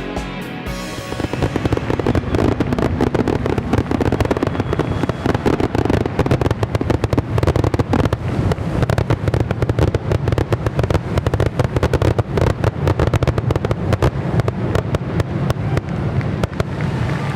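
Fireworks going off in a rapid, dense barrage of bangs and crackles that starts about a second in and keeps going without a break, with music underneath.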